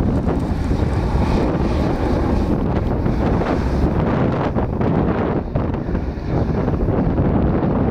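Strong, gusty typhoon wind buffeting the camera's microphone in a continuous low rumble that swells and dips with the gusts.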